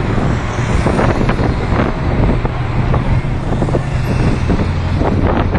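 Roadside traffic with a vehicle engine running steadily, and wind buffeting the microphone.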